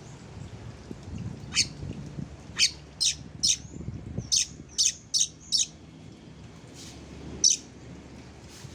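Oriental magpie-robin (kacer) giving about nine short, harsh calls in an uneven series, with a lone last call near the end.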